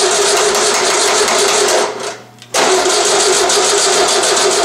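VW 1600 dual-port air-cooled flat-four turned over on its starter in two cranking bursts of a few seconds each, with a short pause between, without catching. Its carburettor float bowl is not yet filled with fuel.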